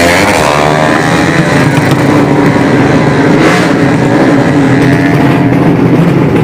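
Drag-race motorcycle engines in the 200cc modified class running loud and steady at high revs.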